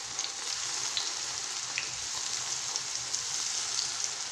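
Tomato slices frying in a little hot oil in a frying pan: a steady sizzle with the odd small crackle.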